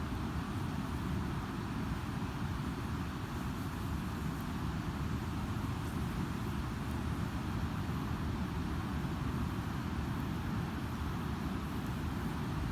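Ocean surf breaking on a sandy beach: a steady, low, continuous rush of waves with no distinct single breaks.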